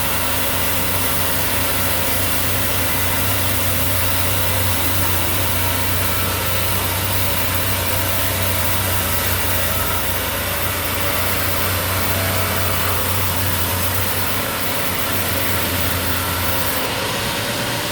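An engine running steadily, a low hum under a noisy wash; the low hum fades out near the end.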